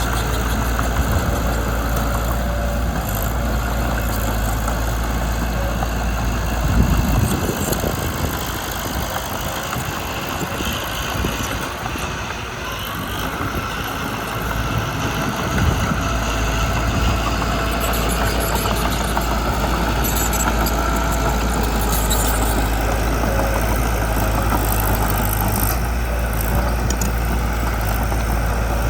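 Mitsubishi BD2 bulldozer's diesel engine running steadily while working. Its low drone thins out for several seconds in the middle, then comes back.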